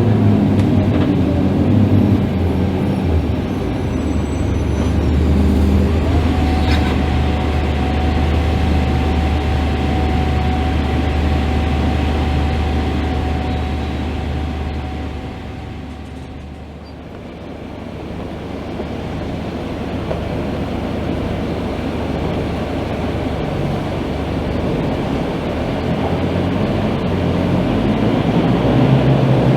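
Scania K310IB city bus running. A strong engine drone with a steady whine above it holds for about ten seconds, eases off and quietens briefly a little past the middle, then builds again.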